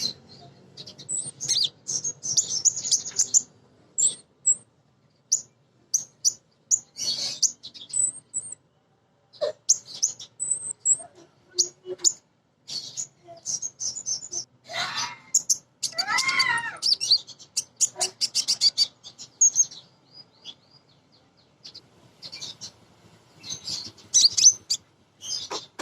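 Female kolibri ninja sunbird calling, with quick series of thin, high chirps and trills in bursts separated by short pauses. About halfway through comes a lower, warbling phrase of rising and falling notes.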